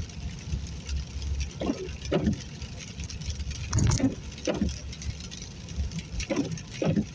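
Car windshield wipers sweeping in pairs of strokes about every two and a half seconds, over the steady low rumble of the car driving on a wet road in rain.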